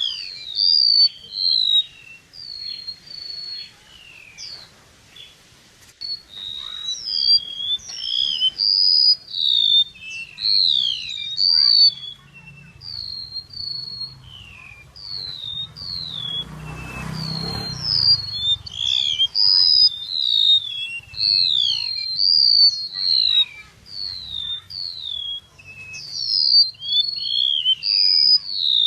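Flowerpecker (chim sâu) song of the 'kéo đờn' type, used as a lure call for trapping: a continuous, rapid run of short, high, sliding whistled notes, some rising and some falling. About halfway through, a brief rush of noise swells under the notes.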